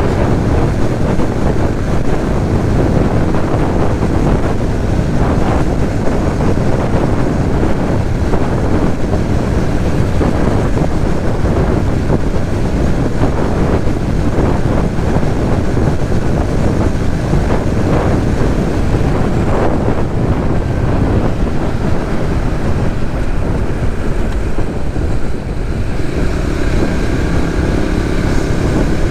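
Steady wind noise on the microphone mixed with a Suzuki GSX-S150's single-cylinder engine running under way on the road.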